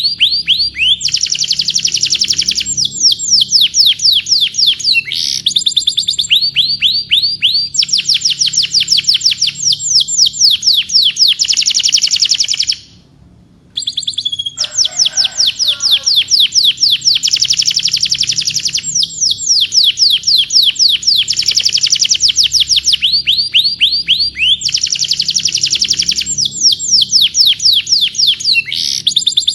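Domestic canary singing: long trills of rapid, repeated downward-sweeping notes in phrases of a few seconds each, with a brief gap about 13 seconds in.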